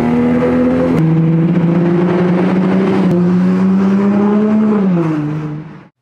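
Toyota Supra with a Tomei aftermarket exhaust accelerating: the exhaust note climbs, drops about a second in as it shifts up, climbs again through a long pull, then falls near the end and cuts off abruptly.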